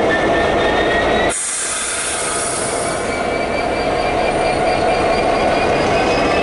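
Freight train rolling past with its wheels squealing on the rails: several thin high squeals slowly rising in pitch over a steady rumble. The sound drops abruptly about a second in, then the squealing and rumble carry on a little quieter.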